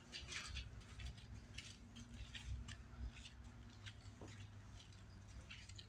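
Faint, scattered light ticks and rustles at irregular intervals over a low rumble, like small movements and handling close to the microphone.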